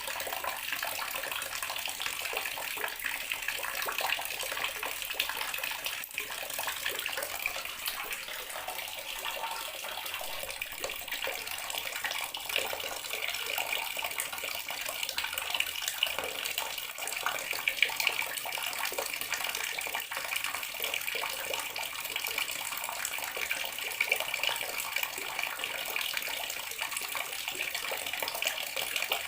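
Water running steadily from a tap into a bathroom sink, a continuous splashing stream.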